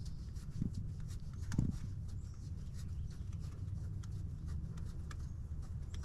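Scattered light clicks and taps of hand tools and metal fasteners being worked in an engine bay, with two slightly louder knocks in the first two seconds, over a low steady rumble.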